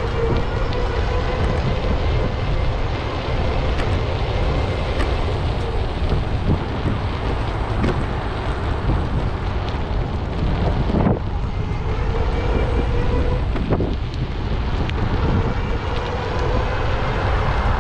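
Wind rumbling on the phone's microphone during a bike ride, over the steady hum of passing traffic.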